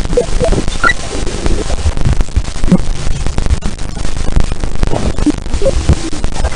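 Space-sound audio presented as the sound of Jupiter's moon Callisto: a loud, dense crackling static, heaviest in the low end and thick with clicks, with a few brief chirp-like tones scattered through it.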